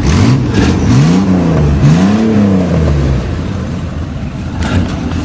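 Vehicle engine revving up and back down twice over about two seconds, over a steady low engine rumble.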